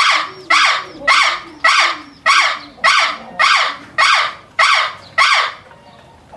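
An animal calling harshly over and over, about ten loud calls evenly spaced a little more than half a second apart, then stopping.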